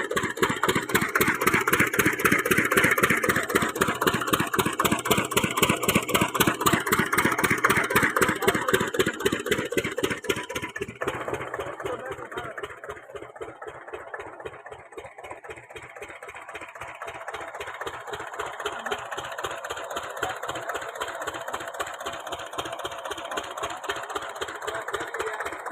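Lister-type 8 hp single-cylinder diesel engine running a water pump, chugging steadily with an even firing beat. About eleven seconds in the sound becomes quieter and duller while the beat carries on unchanged.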